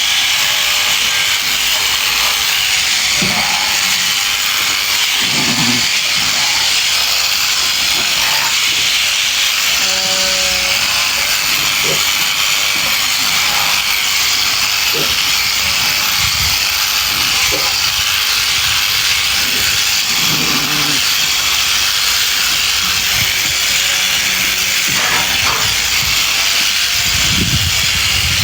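Electric sheep-shearing clippers running continuously, a steady high hiss, with a few short low sounds over it.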